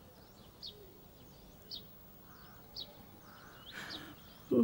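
A small bird chirps short high notes about once a second, with fainter twittering between them. Near the end comes a sharp sniff, then a brief loud vocal grunt.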